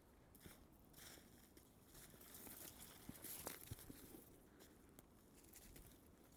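Faint footsteps crunching in snow, a few scattered steps and crackles over a light hiss, a little louder about three seconds in.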